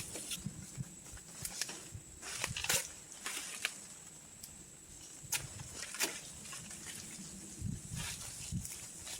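Irregular sharp snaps and crackles with low rustling, about a dozen over several seconds, typical of someone moving through and handling dry forest undergrowth, over a steady high-pitched tone.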